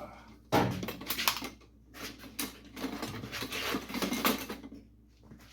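Clattering and knocking of metal as a four-foot shop light fixture is handled and fitted against another one, with a sharp knock about half a second in and rattles for the next few seconds.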